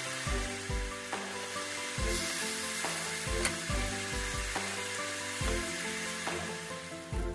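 Egg-and-vegetable fritters sizzling as they fry in a skillet, with a spatula moving them around the pan. Background music with a steady beat plays over it.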